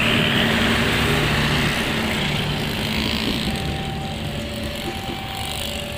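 Passenger train coaches rolling past on the rails, a dense rumble of wheels that slowly fades as the train pulls away. Faint steady tones come in about halfway through.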